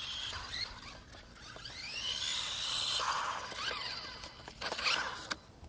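Electric motor of a radio-controlled toy truck whining, its pitch rising and falling as the truck speeds up and slows down, with a few sharp clicks near the end.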